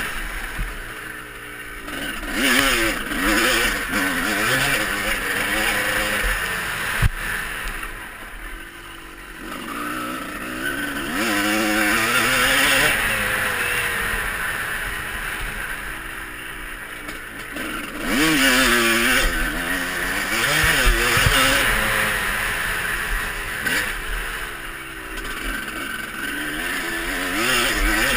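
Motocross bike engines revving up and down through the gears as they ride the track, getting louder and fading as they pass. There is a single sharp knock about seven seconds in.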